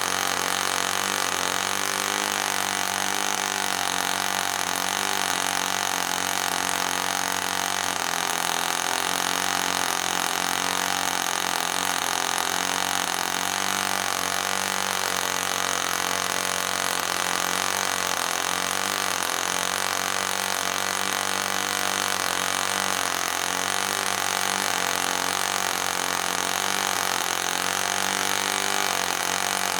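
Enya 09 III two-stroke glow model engine with an 8x4 propeller, running steadily at high speed as a continuous high-pitched buzz whose pitch wavers slightly. The engine is a restored one that leaks compression.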